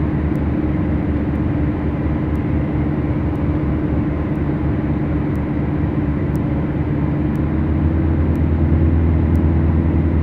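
Beechcraft Duchess's twin Lycoming four-cylinder piston engines droning steadily as heard inside the cabin, growing a little louder and deeper about eight seconds in. Faint regular ticks come about once a second.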